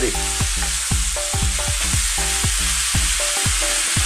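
Chopped white fish, prawns and vegetables sizzling steadily in a frying pan while a wooden spoon stirs them.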